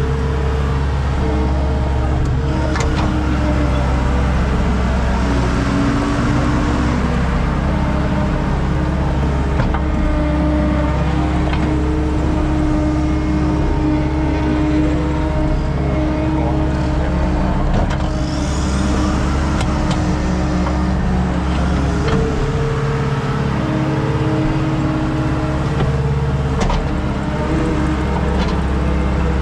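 Skid steer engine running steadily under load during rough grading, its pitch rising and falling slightly now and then, with a few short clanks.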